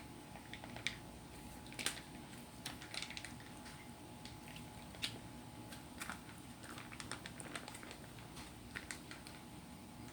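Close-miked eating and food-handling sounds: irregular small clicks, smacks and squishes, a few sharper ones, over a faint steady hum.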